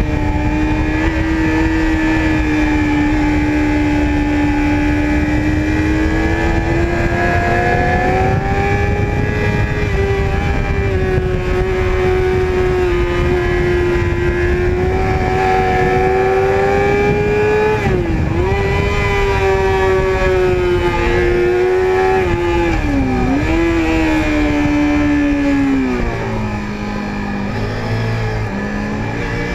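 Sport motorcycle engine at high revs, heard from the rider's seat over wind noise. The pitch holds high and climbs slowly, dips sharply and recovers twice in the second half, then falls to a lower note near the end as the bike slows.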